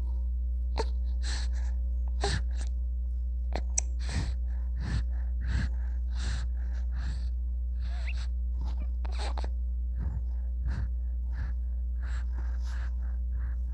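A newborn baby's short breathy gasps and small noises, irregular, about one or two a second, over a steady low hum.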